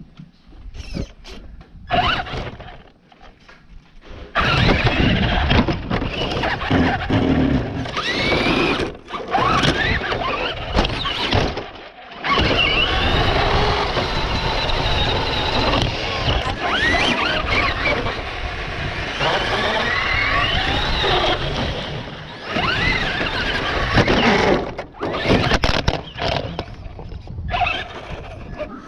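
Radio-controlled car driving, its motor whining up and down in pitch over a steady rumble of wheels on the ground, stopping and starting several times.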